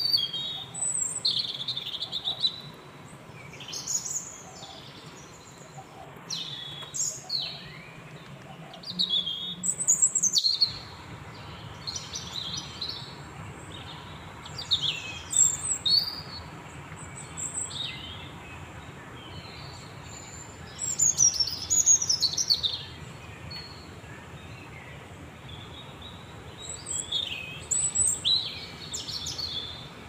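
Small birds chirping in short, high, repeated calls and quick trills, coming in clusters with short gaps between them, over a faint steady low hum.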